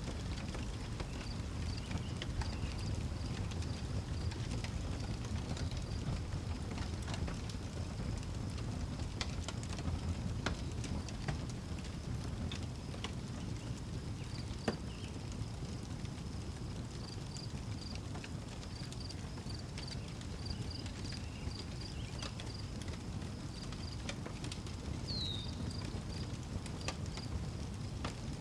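Outdoor wood fire crackling, scattered sharp pops over a low steady rumble, while crickets chirp in short high pulses and a bird gives one short falling note near the end.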